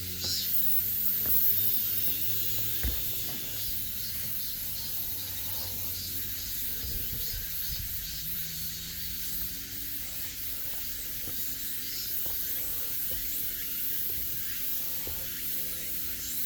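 Steady, high-pitched chorus of summer insects droning in woodland, with a faint low hum beneath and a single soft thump about three seconds in.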